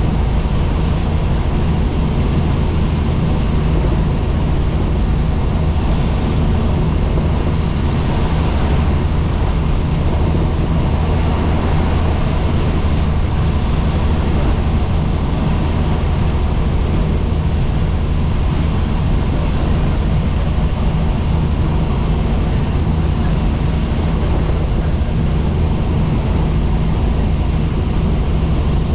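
Helicopter in flight: steady, loud rotor and engine noise with a constant low drone, unchanging throughout.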